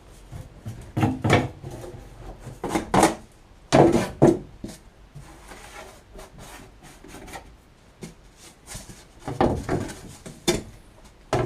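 Wooden boards or panels being handled and worked: irregular knocks and short scrapes of wood on wood, loudest about four seconds in and again near the end.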